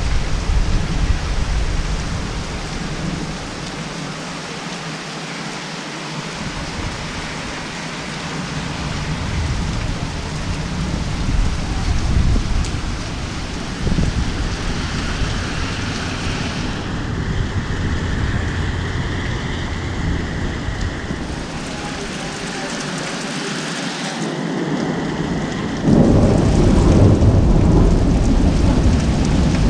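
Heavy rain falling steadily, with low rumbling thunder. The rain grows louder near the end.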